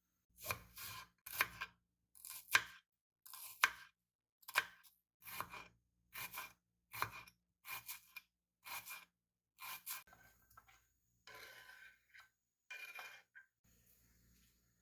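Food being cut with a blade in about fifteen short, crisp strokes, roughly one or two a second, for about ten seconds, followed by a few softer scraping sounds.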